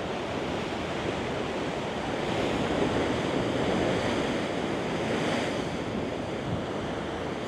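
Ocean surf washing against a rocky shoreline, a steady rush that swells a little partway through, with wind buffeting the microphone.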